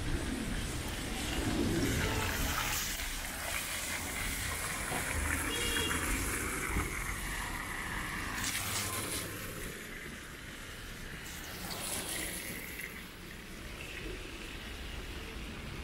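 Rain on a wet city street: a steady hiss of falling and trickling water, with a louder, higher hiss swelling twice, about eight and twelve seconds in.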